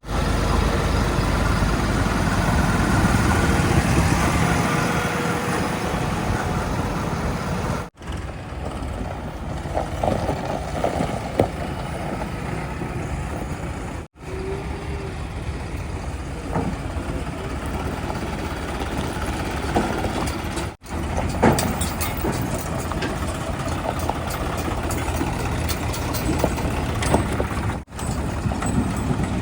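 Diesel engines of heavy earthmoving vehicles and trucks running, in several short clips joined by abrupt cuts, with a few short knocks about a third of the way in and again past the middle.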